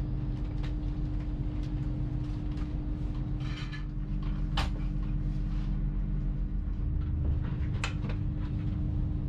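Cabin running noise of a Hitachi Class 802 train at speed: a steady hum and rumble with a held tone, broken by a few sharp clicks and a short hiss about three and a half seconds in.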